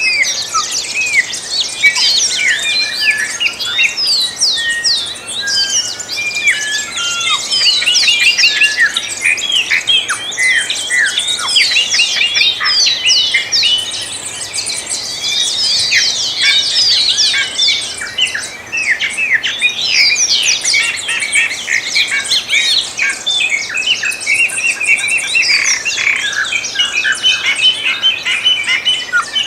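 A dense chorus of many songbirds singing and chirping at once, thick with quick, overlapping high notes, many of them short downward sweeps.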